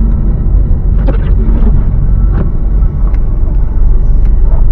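Steady low rumble of a car driving, heard inside the cabin, with a few light knocks scattered through it.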